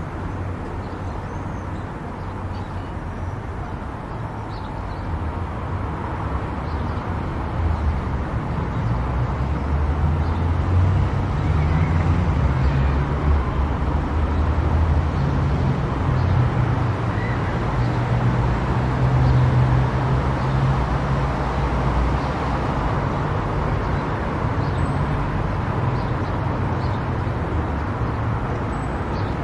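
Car driving on a road: a steady low engine and tyre rumble that grows louder a few seconds in and stays up.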